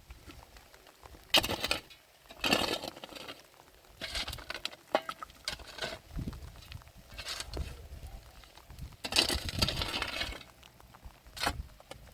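Irregular bursts of handling noise, rustling and clinking, about half a dozen short bursts with quiet gaps between them.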